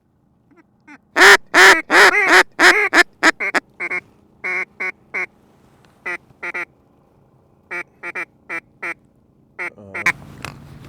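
Hand-blown duck call sounding a run of loud quacks that starts about a second in and trails off in loudness, followed by shorter groups of quacks.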